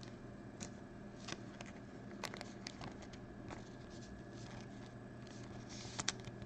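Trading cards being handled on a table: scattered soft clicks and rustles of cardboard and plastic, with a small cluster in the middle and the sharpest pair of clicks near the end, over a steady low electrical hum.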